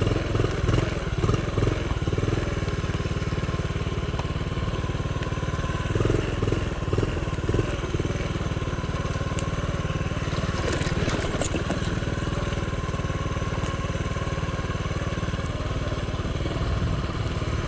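Honda CT70's small single-cylinder four-stroke engine running at low speed under a rider on a rough trail. The throttle swells briefly near the start and again about six seconds in.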